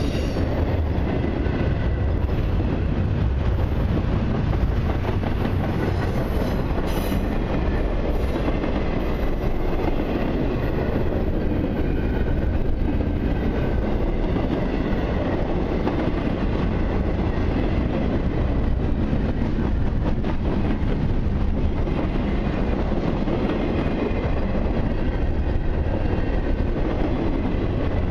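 Long CN intermodal freight train rolling steadily past: a continuous rumble of the cars with wheels clicking over rail joints and a faint high wheel squeal.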